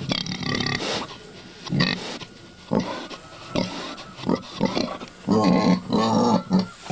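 Pregnant sow close to giving birth making a string of short grunts about a second apart, then a longer run of grunts near the end.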